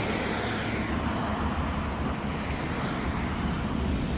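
Steady rumble of road traffic going by.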